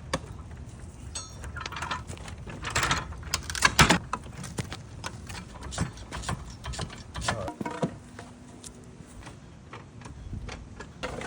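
A motorcycle jack being worked under a heavily loaded pallet: a run of irregular mechanical clicks and knocks with short creaks, the loudest knocks about four seconds in.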